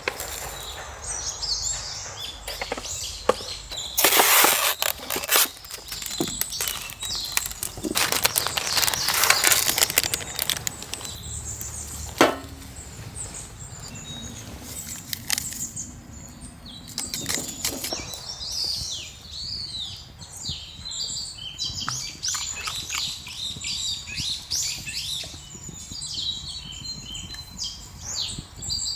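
Wild forest birds chirping and calling, many short quick notes, most plentiful in the second half. Earlier, two loud bursts of rough noise come about four and eight seconds in, followed by a single sharp knock.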